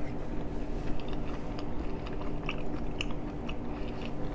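A person chewing a mouthful of shrimp close to the microphone, with short, irregular mouth clicks, over a steady low hum.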